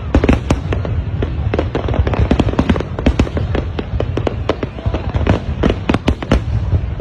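High-altitude aerial fireworks bursting in a dense, continuous barrage: sharp bangs and crackles several times a second over a steady low rumble.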